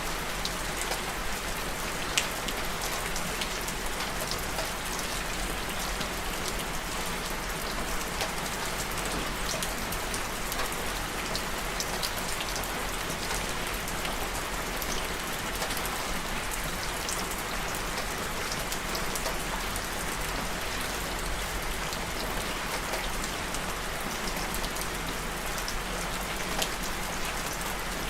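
Steady rain falling, with many small droplet ticks spattering on a surface over an even hiss.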